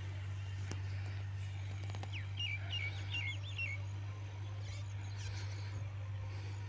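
A bird chirps a quick run of about six short rising-and-falling notes, around two to three and a half seconds in, over a steady low hum.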